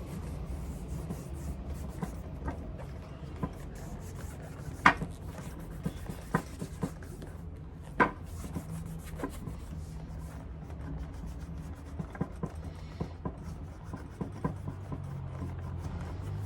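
Rubbing and handling sounds of polishing a leather shoe, with scattered light clicks and knocks from the tools, the loudest about five seconds in and another about eight seconds in.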